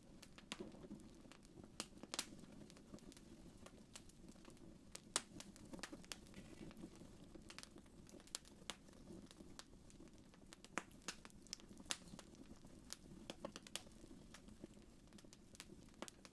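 Fireplace wood fire crackling quietly: irregular sharp pops and snaps, several a second at times, over a soft steady low rush of the flames.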